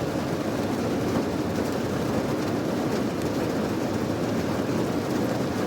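Steady, unbroken rain noise, its weight low and full, with no separate drops or gaps.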